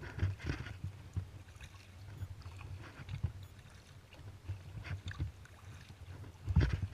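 Kayak paddle strokes, the blades dipping and splashing in the water at an uneven pace over a low rumble of wind on the microphone. A louder stroke comes near the end.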